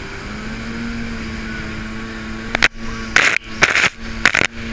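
Boat engine running with a steady drone. Four or five short rushes of noise cut in over it in the second half.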